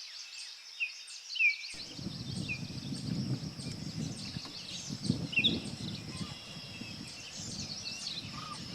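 Birds chirping: short, downward-sweeping calls repeated every second or so over a steady high-pitched outdoor background, with a low rumbling noise coming in about two seconds in.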